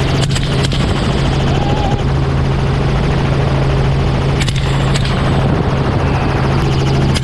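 Helicopter engine and rotor running steadily, with a low hum throughout. Rifle shots crack over it in two pairs: one pair near the start and another about four and a half seconds in.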